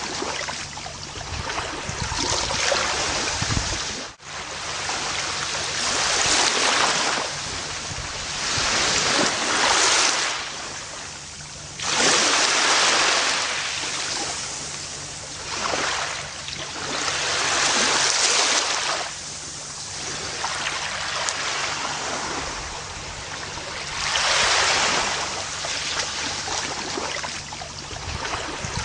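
Ocean surf washing onto a beach, the hiss of each wave swelling and fading every few seconds. There is a momentary dropout about four seconds in.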